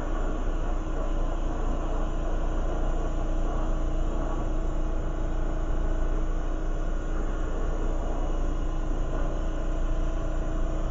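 Lampworking torch burning steadily while glass rod is heated: a constant rushing noise with a low rumble underneath.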